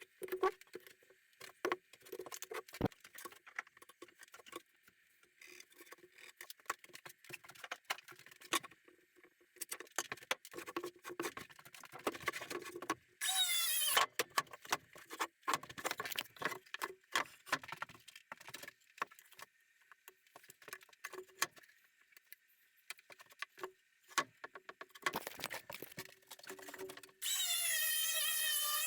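Workshop handling noise, with repeated clicks, taps and scrapes of tools and wood. Twice, once about halfway through and again near the end, a small electric motor, likely a cordless drill, whines up and runs briefly with its pitch shifting, as when driving screws while mounting a tabletop to its base.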